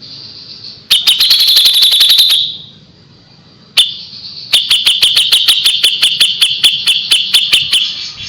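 Kapas tembak songbird singing its rapid 'tembakan' (shot) phrases: two runs of sharp, high repeated notes over a ringing tone. There is a quick burst about a second in, then a longer, steadier volley of about five notes a second from about halfway through.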